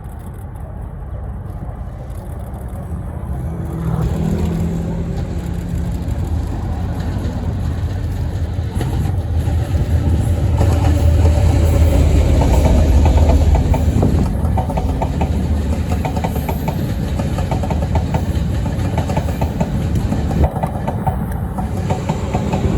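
A diesel-hauled passenger train passing: the engine of diesel locomotive R112 drones louder as it approaches, peaking about halfway through. The wheels of the Chu-Kuang coaches then clatter over the rails as the train rolls by, easing off slightly near the end.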